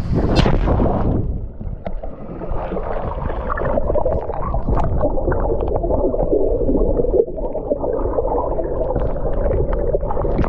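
A splash into the sea, followed by muffled underwater bubbling and gurgling heard from beneath the surface.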